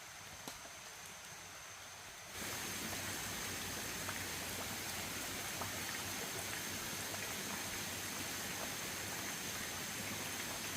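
Steady water noise, with faint scattered ticks and a thin high steady tone above it, starts abruptly about two seconds in over a quieter outdoor background.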